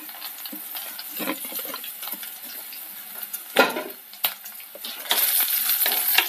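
Utensils knocking and scraping against an unglazed clay pot as green chillies, dried red chillies and curry leaves go into hot coconut oil, the loudest knock a little past halfway. About five seconds in, a loud sizzle starts as a wooden spatula stirs them through the oil.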